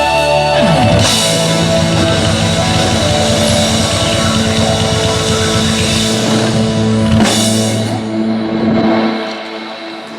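Live rock band rehearsing on an outdoor stage PA: drum kit and guitar playing held chords, with cymbal crashes about a second in and again about seven seconds in. The music fades out near the end.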